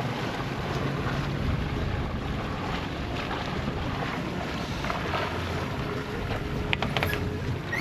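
Wind buffeting the microphone and water washing along the hull of a small sailboat under way, with a low steady hum underneath and a few light clicks near the end.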